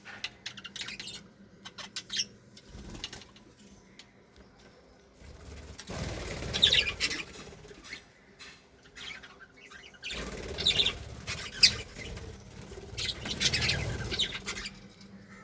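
Budgerigars fluttering and flapping their wings in long rushing stretches, with a few short chirps and ticks near the start.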